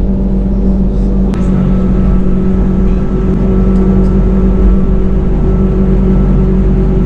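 Steady, loud mechanical hum of a running vehicle: a low drone with several steady pitched tones over it, and a sharp click about a second in.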